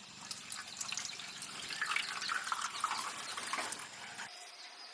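Water trickling and dripping with small splashes, stopping abruptly near the end.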